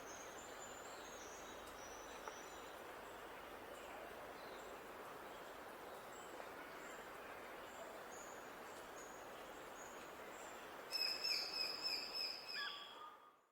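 Songbirds singing over a steady background hiss: faint, high, thin calls scattered at first, then near the end a much louder, rapid run of repeated notes from a nearby bird before the sound fades out.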